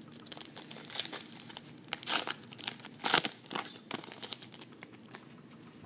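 Trading-card pack wrapper crinkling and being handled, in irregular rustles with louder crackles about two and three seconds in.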